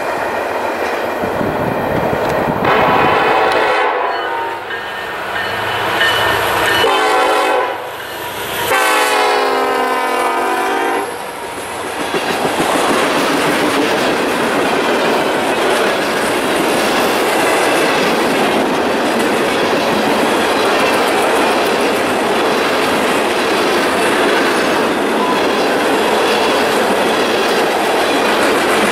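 Diesel locomotive horn sounding several blasts, the last long one dropping in pitch as the locomotive passes. Then a loaded freight train of tank cars rolls by with a steady rumble and clickety-clack of wheels over the rail joints.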